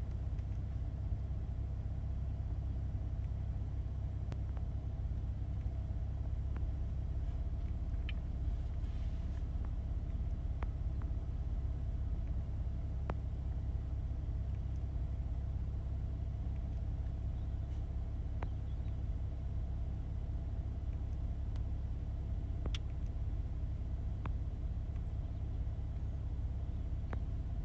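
BMW M140i's turbocharged 3.0-litre straight-six idling with no load, a steady low rumble heard from inside the cabin.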